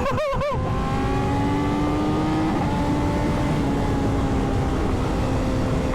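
Sport motorcycle engine held at high revs at high speed, its note rising gently and then holding steady, under heavy wind rush on a helmet microphone.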